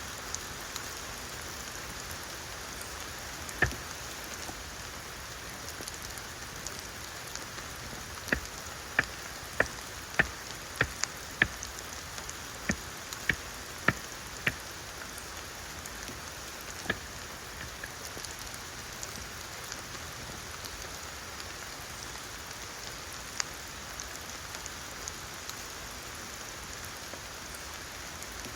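Steady rain falling, with sharp single drops tapping loudly on a nearby surface: one about three and a half seconds in, a quick run of about a dozen between eight and fifteen seconds in, then a few scattered taps.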